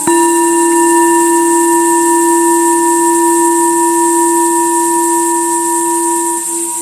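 Tibetan singing bowl struck once at the start and left to ring, a long steady hum with a low fundamental and a couple of higher overtones.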